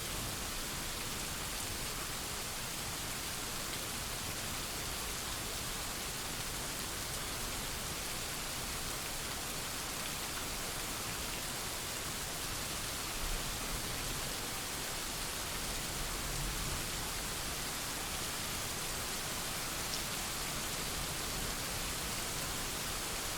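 Steady rain falling in a thunderstorm, an even hiss with no breaks, with a faint low rumble about two-thirds of the way in.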